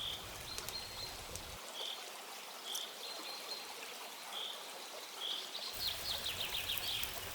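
Steady rushing of running water, with a bird repeating a short high call roughly once a second and a quick rattling trill about six seconds in.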